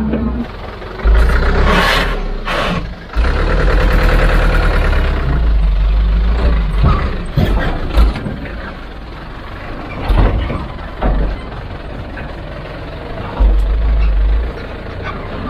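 Heavy machinery running on a work site, its engine noise rising and falling unevenly, with scattered knocks and a louder spell near the end.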